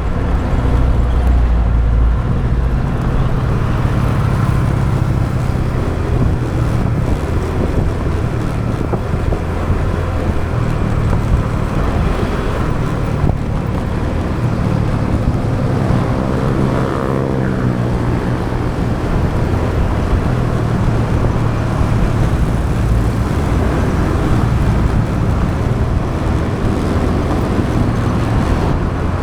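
Motorbike engine running under way, with road noise and surrounding traffic. About sixteen seconds in, a pitched engine note slides downward for a couple of seconds.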